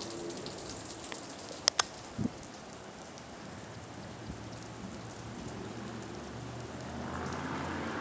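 Light rain falling steadily on wet pavement and puddles, an even patter. Two sharp clicks close together and a soft thump just after them, about two seconds in.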